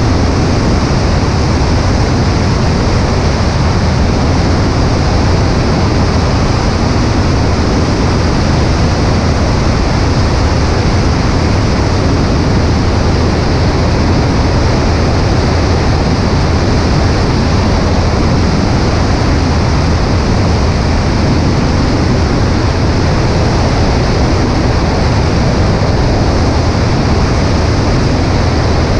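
Cessna 140A light aircraft's engine drone under steady, loud airflow rushing past a wing-mounted camera, with a deep low hum and no change throughout.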